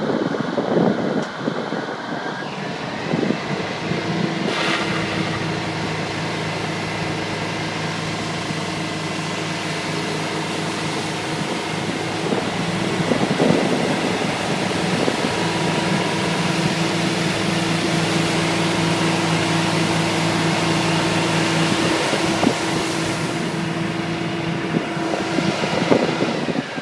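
Fire truck's Detroit Diesel Series 92 engine running with a steady hum.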